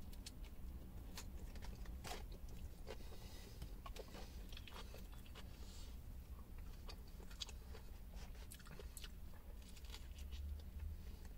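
A person biting into and chewing a chicken wrap with lettuce close to the microphone: soft, wet, scattered crunches and crackles, over a steady low hum.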